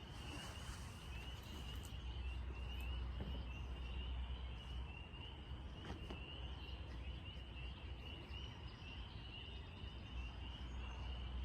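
Quiet outdoor ambience: a steady high-pitched trill of rapid chirps, about four or five a second, over a low rumble.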